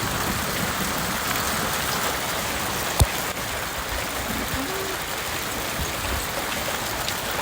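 Small hailstones pelting down in a dense, steady hiss, with one sharp click about three seconds in.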